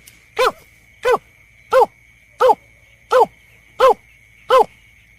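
Berkik (snipe) lure call: seven short, falling hoot-like notes in an even series, about 0.7 s apart. A faint steady high tone runs underneath.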